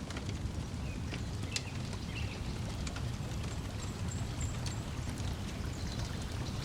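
Layered lakeside ambience: a steady low wash of lapping water and breeze, with scattered crackles and pops from a wood fire and a few faint bird chirps.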